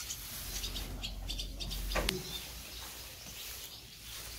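Small birds chirping: a run of short high chirps, then one sharp call sliding downward in pitch about two seconds in.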